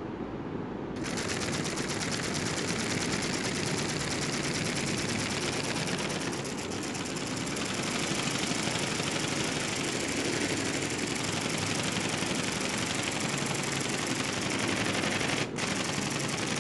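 Small motor-driven mechanism of a homemade robotic bird running, making a fast, dense clicking rattle. It starts about a second in and breaks off briefly near the end.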